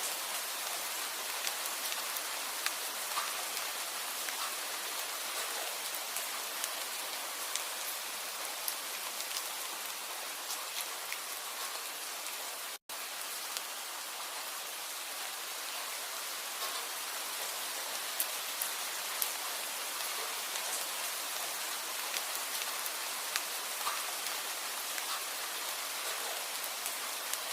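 Steady rain falling, an even hiss scattered with the small ticks of individual drops; the sound cuts out for an instant about halfway through.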